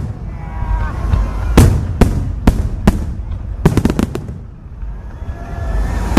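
Aerial fireworks bursting overhead: a rapid series of sharp bangs, several in quick succession near the middle, over a continuous low rumble.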